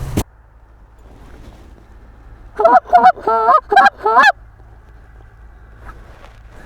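Geese honking: a quick run of about six loud honks starting about two and a half seconds in.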